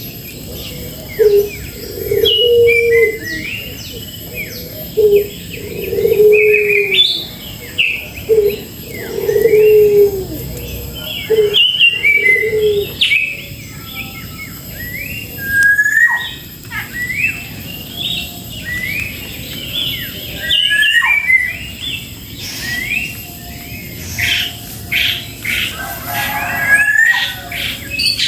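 Several birds calling: a dense run of short, rising chirps and whistles throughout. Under them, through roughly the first half, a dove coos low and repeatedly.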